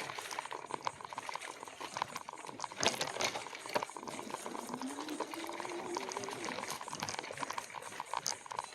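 E-bike rolling over a rough dirt trail: tyres crunching and the bike rattling with a fast, dense ticking, with a couple of sharper knocks. A low tone rises about five seconds in and holds.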